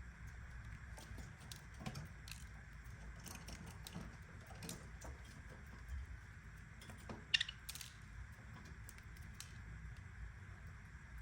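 Scattered light clicks and taps over a low steady hum, with one sharper click about seven seconds in.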